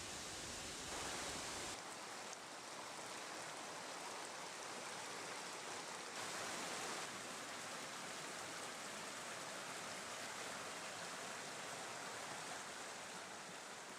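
Steady, even rushing noise like running water or hiss, shifting slightly in tone about two seconds and six seconds in.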